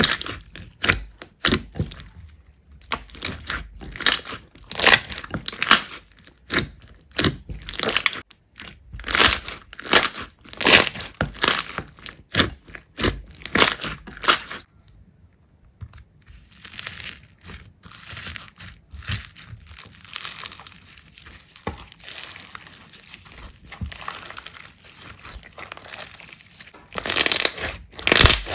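Slime being squeezed and pressed, making a rapid run of sharp clicking pops. A short pause comes about halfway, then a softer, quieter stretch of squishing before the loud popping returns near the end.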